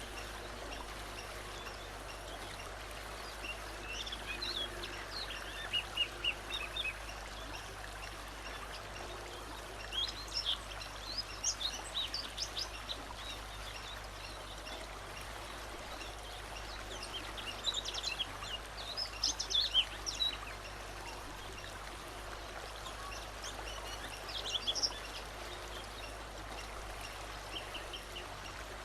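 A songbird singing in four bursts of quick, high chirping notes over the steady rush of a flowing stream.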